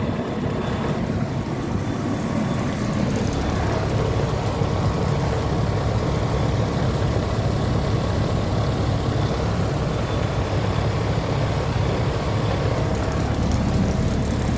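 Nordyne central air-conditioner condensing unit running: a steady hum and whoosh of the compressor and condenser fan, getting a little louder a few seconds in.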